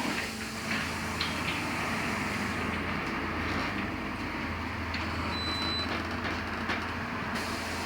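Interior of a LiAZ-6274 electric bus under way: steady tyre and road noise over a low hum, with small rattles and clicks from the cabin. A short high tone sounds briefly about five seconds in.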